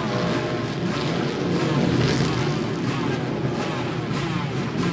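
Motorcycle engines running, with several overlapping engine notes rising and falling in pitch over a steady exhaust rumble.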